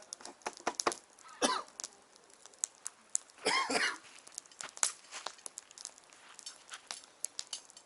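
Wood bonfire crackling, with irregular sharp pops of burning wood. A louder rasping burst, like a cough, comes about three and a half seconds in.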